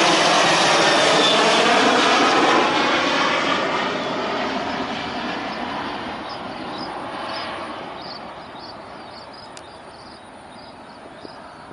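Jet airliner taking off, its engines loud at first, then fading steadily as it climbs away, with a slight wavering in pitch as it goes past.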